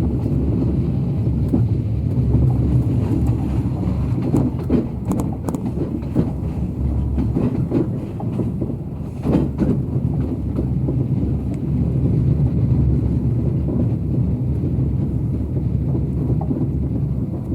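Train running along the track: a steady low rumble with scattered clacks from the wheels on the rails.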